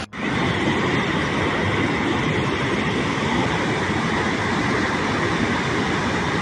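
Steady, loud rushing noise that begins abruptly after a cut, with no rhythm or distinct events.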